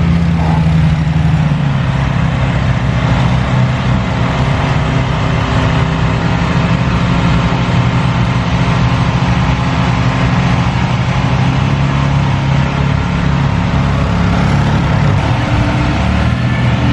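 Engine of an off-road vehicle running steadily at low revs, its note shifting slightly near the end.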